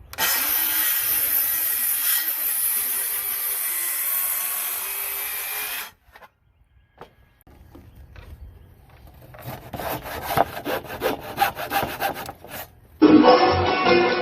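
A saw cutting a bird's mouth notch into a wooden roof rafter: one loud, steady cut for about six seconds with a wavering pitch, then after a short pause a run of quick sawing strokes. Music comes in near the end.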